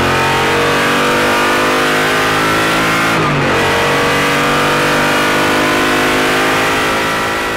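Onboard sound of the Koenigsegg CCGT racing car's V8 engine pulling hard under acceleration, its pitch climbing steadily, with a brief drop about three seconds in as it changes gear. The sound begins to fade near the end.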